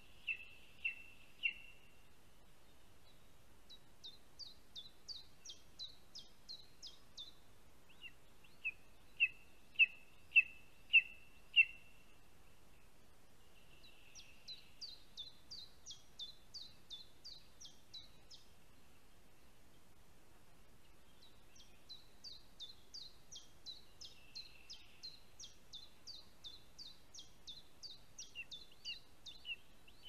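Birds calling in the forest. A loud series of short, sharp call notes, about two a second, runs at the start and again around ten seconds in. Between these come fainter, quicker runs of high, falling notes, the longest near the end.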